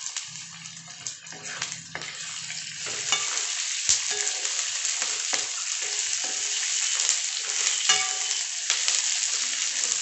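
Sliced onions, green chillies, peanuts and roasted chana dal sizzling in hot oil in a kadhai. A wooden spatula scrapes and knocks against the pan as they are stirred, and the sizzle grows louder about three seconds in.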